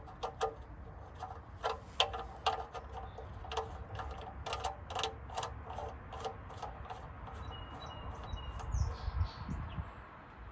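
Birds chirping in short, irregular bursts, with a couple of high whistled notes and quick falling whistles near the end, over a low steady rumble.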